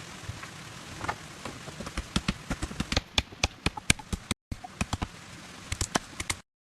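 Steady rain hiss, joined from about two seconds in by a run of sharp, irregular knocks or taps.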